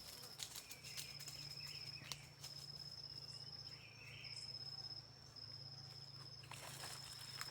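An insect trilling: one steady, high, finely pulsed note with only brief breaks, with a few faint short chirps in the first half and a low hum underneath.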